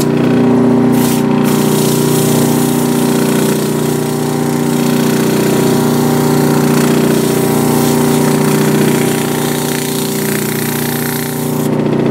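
Electric motor of a 1930s Delta DP220 drill press, freshly fitted with new bearings, running at speed with a steady hum and a whir. It is spinning freely and no longer clacks, though the owner thinks the rotor is a little out of balance.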